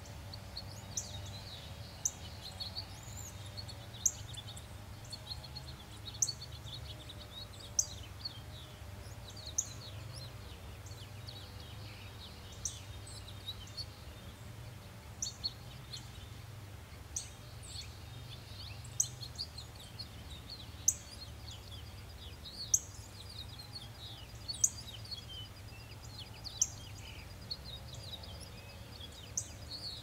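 Songbirds calling: one bird gives a short, sharp, high chip about every two seconds over a steady chatter of softer chirps and twitters. A fast, even trill starts about 25 seconds in, and a low steady hum runs beneath.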